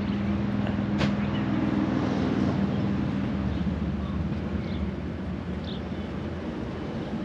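Boat engine idling with a steady low hum that weakens after about three and a half seconds; a single sharp click about a second in.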